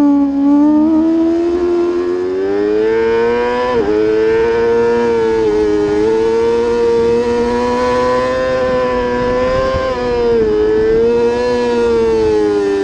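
Superbike racing motorcycle engine running hard at high revs, its pitch gliding up and down with the throttle. There is a quick break in the note about four seconds in and a dip near ten seconds, before it climbs again.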